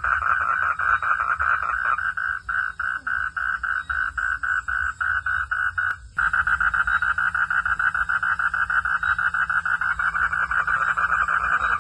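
Frogs calling in a chorus of rapid, evenly spaced pulses, about five a second, over a low rumble. The calls cut out for an instant about halfway through.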